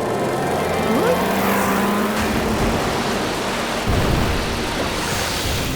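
Animated action sound effects: a dense rushing noise with a short rising whistle about a second in and a sudden low thud about four seconds in.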